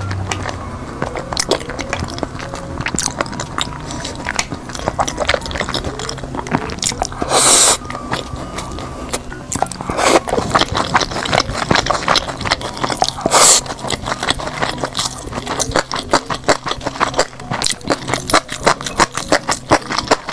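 Close-miked chewing and biting of food, with dense small wet clicks and smacks. Two short, louder noisy bursts come about a third and two-thirds of the way through.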